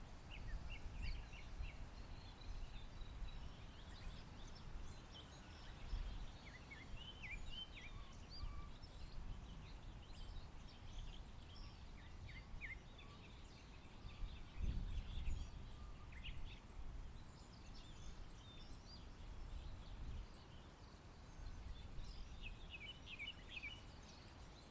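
Songbirds chirping and singing in short scattered phrases, with a denser burst of chirps near the end, over a faint low rumble that swells about fifteen seconds in.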